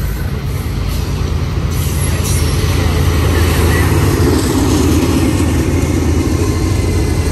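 Diesel locomotive engines of a BNSF intermodal freight train drawing near and rolling past: a steady, heavy low drone that grows louder over the first few seconds and then holds.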